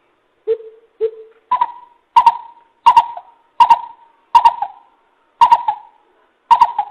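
Greater coucal calling a run of deep, evenly spaced hoots, about one every two-thirds of a second. The first couple are lower and the rest step up to a higher pitch.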